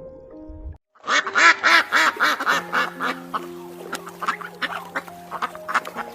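Background music, with a fast run of short, repeated animal calls starting about a second in, several a second, thinning out after a couple of seconds.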